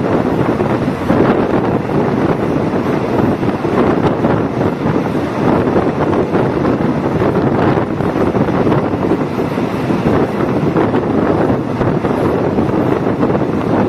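Diesel multiple unit train on the move: a steady rush of wind and running noise, with wind buffeting the microphone.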